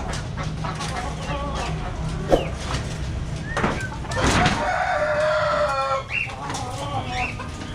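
A rooster crows once, a long call starting about four seconds in, among short bird chirps, over a steady low background hum.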